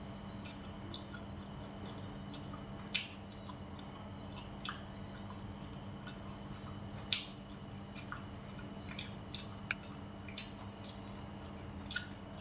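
A person chewing food with the mouth open, with wet smacking clicks now and then, the loudest three about 3, 5 and 7 seconds in, over a steady low hum.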